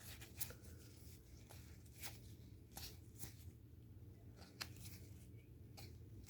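Faint clicks and light rustling of trading cards being handled and slid off a stack one at a time, over a low steady hum.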